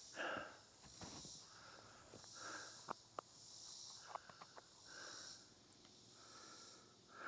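Faint summer woodland insect chorus: a high, thin buzz that swells and fades about once a second. Soft rustles and a few small clicks come through under it.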